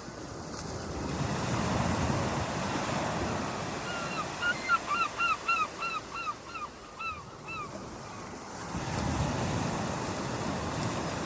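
Waves washing in on a shore, swelling twice. From about four seconds in, a bird calls in a quick run of a dozen or so short, falling notes, about four a second, lasting some three and a half seconds.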